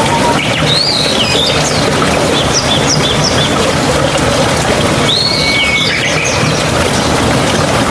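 Steady running water with birds calling over it: a chirping call about half a second in, a short series of repeated notes in the middle, and another call near five seconds.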